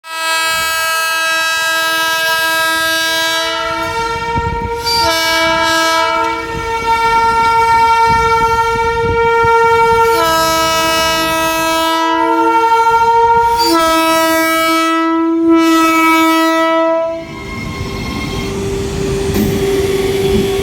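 Indian Railways WAG-12B electric locomotive's horn sounding in long, chord-like blasts that switch back and forth between two pitches for about seventeen seconds. The horn then stops, leaving the rumble and clatter of the train running past.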